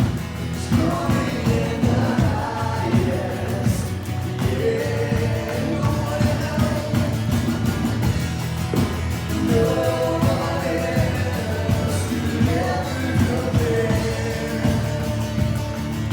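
Worship music: voices singing a song over a band, with steady low bass notes and a regular beat.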